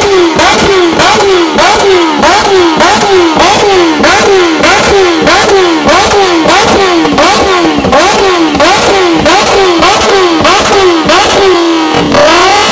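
Motorcycle engine and exhaust revved in quick, repeated throttle blips, about two a second, each rev falling back with a sharp crack from the exhaust. Near the end the pattern breaks into one longer rev that falls away more slowly.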